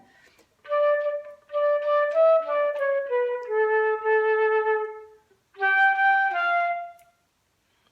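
Recorder playing a melody line: a stepwise descending phrase that settles on a long held low note, then a short second phrase of two or three notes that stops about a second before the end.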